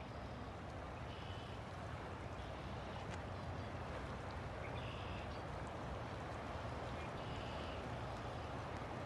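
River water flowing steadily, with short high-pitched animal calls repeating every second or two.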